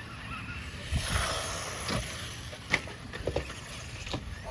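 Radio-controlled cars running on concrete skate park ramps: a rush of tyre noise about a second in, then a string of sharp knocks and clatters, the loudest a little under three seconds in.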